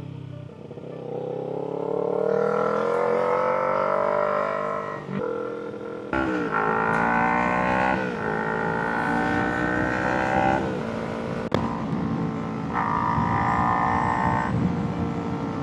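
Kawasaki Ninja 300's parallel-twin engine pulling hard through the gears: the revs climb over a few seconds and drop sharply at each upshift, four or five times over.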